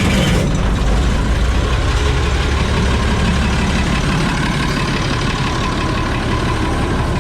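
Oliver 7300 combine's engine running steadily, freshly started.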